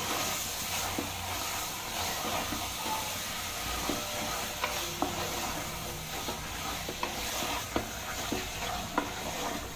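Goat head meat sizzling in oil with onion and tomato masala in a pressure cooker, stirred by hand with a spoon that now and then clicks and scrapes against the pot: the meat being sautéed until it shrinks and curls.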